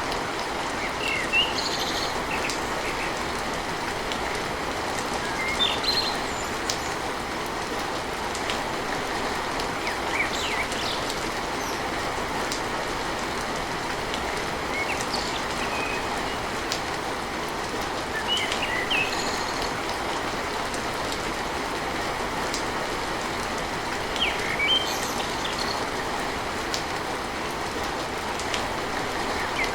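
Steady heavy rain on a tin roof, with birds chirping briefly every few seconds.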